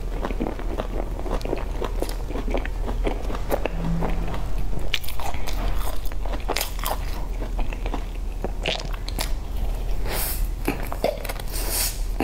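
Close-miked eating sounds: biting into and chewing cream puffs with a crumbly crust, many small crackles and clicks, a little louder near the end.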